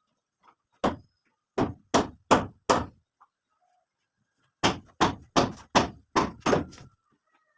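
Hammer blows, struck in two runs at about three a second with a short pause between.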